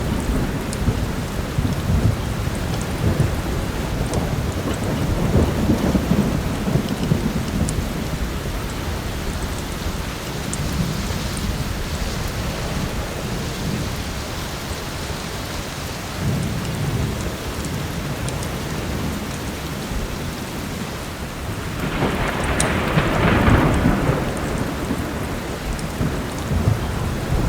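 Heavy rain falling steadily under rolling thunder, which rumbles low several times and swells loudest about 22 seconds in. A few sharp pops come from a crackling wood fire.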